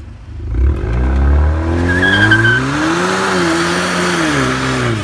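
A car doing a burnout: the engine revs climb from about half a second in, hold high, then fall away near the end, while the spinning tyre squeals.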